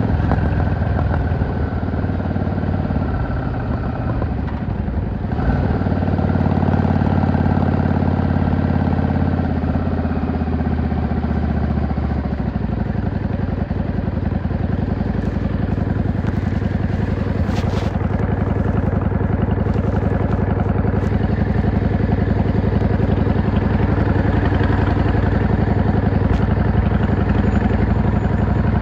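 V-twin cruiser motorcycle engine and exhaust running under way. The note holds steady for about twelve seconds with a brief dip around four seconds in, then settles into a lower, rougher, even running.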